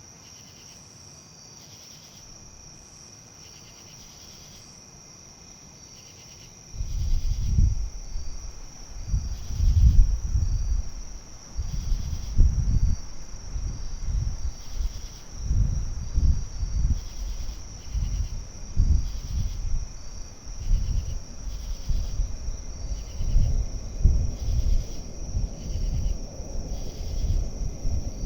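Steady high-pitched insect chirring, pulsing evenly, runs underneath. About seven seconds in, gusting wind starts buffeting the microphone in uneven low rumbles, which are the loudest sound.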